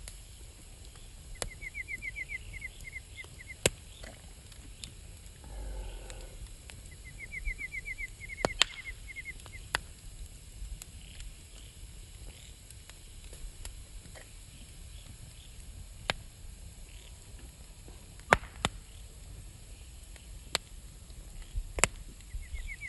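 Wood fire crackling, with sharp pops scattered irregularly through it. A rapid chirping trill, about a second and a half long, repeats three times.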